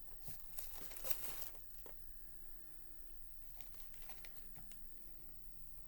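Quiet rustling and crinkling handling noise, busiest about a second in, then a few faint scattered clicks.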